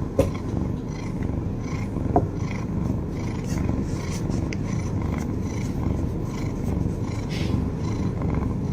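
Domestic cat purring loudly, close to the microphone, as a steady pulsing rumble. Two short clicks come about two seconds apart near the start.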